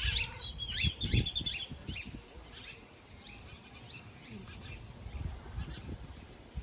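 Birds chirping: a quick run of high repeated notes in the first two seconds, then fainter scattered calls, over a low rumbling of wind or handling noise.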